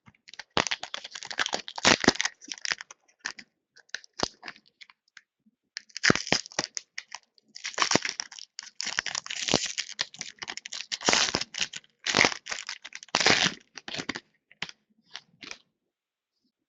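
A foil wrapper on a trading-card pack is torn open and crinkled, and the cards inside are handled. It comes as irregular stretches of crackling and rustling with short pauses between them.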